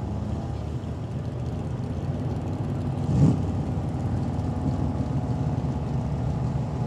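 Truck engine running steadily, with a brief louder burst about three seconds in.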